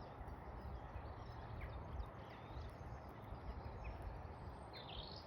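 Quiet outdoor garden ambience: a steady low rumble with a few faint, short chirps from birds or hens scattered through it.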